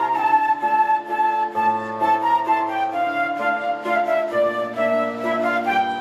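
School orchestra playing a slow piece of film music: a high melody moving step by step over sustained lower chords and bass notes that change about once a second.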